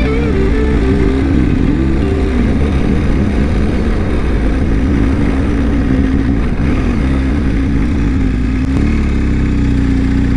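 BMW R1250 boxer-twin motorcycle engine running under way, its note rising and falling with the throttle over wind noise. Near the end it settles to a steadier note.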